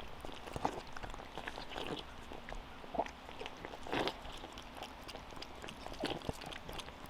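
Farm animals chewing and crunching their feed, with scattered knocks and hoof steps as they shift about; a few slightly louder knocks come about three, four and six seconds in.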